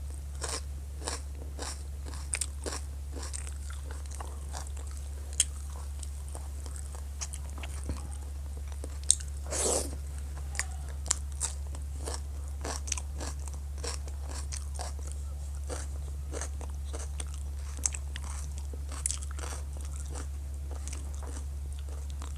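Close-up eating sounds: chewing of soft rice and vegetables with frequent short mouth clicks and smacks and some crunchy bites, and one longer, noisier sound about ten seconds in.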